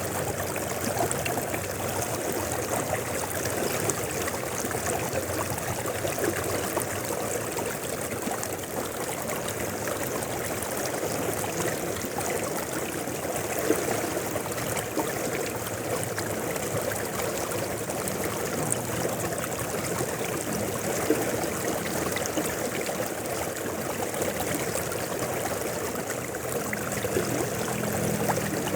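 Mountain river flowing steadily over rocks, a continuous rushing and babbling of water.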